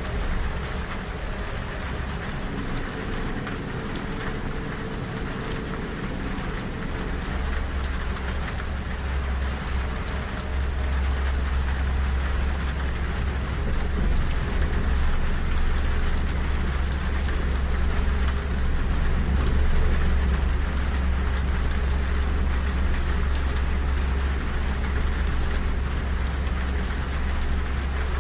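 Steady rain on a train window over the low rumble of a moving train; the rumble grows louder about ten seconds in.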